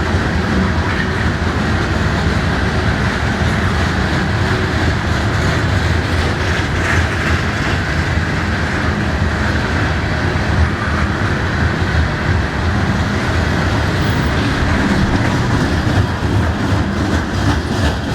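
Norfolk Southern freight train rolling past, a steady loud rumble of cars and wheels on the rails.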